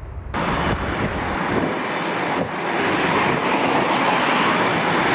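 Steady aircraft engine noise on an airfield, setting in abruptly about a third of a second in.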